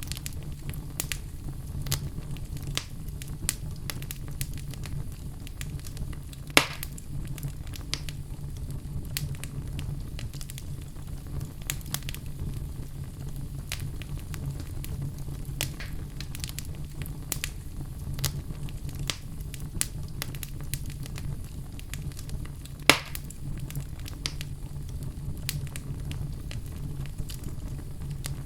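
Wood fire burning in a fireplace: a steady low rumble of flames with frequent crackles and pops, two of them much louder, about a quarter of the way in and again about four fifths of the way in.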